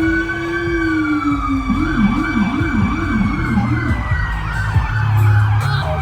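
Fire truck siren wailing, then switching about two seconds in to a fast yelp of rapid up-and-down sweeps, with a second steady siren tone above it and a low steady drone near the end.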